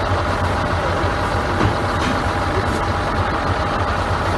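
A heavy engine idling steadily, with a constant high-pitched tone held over it.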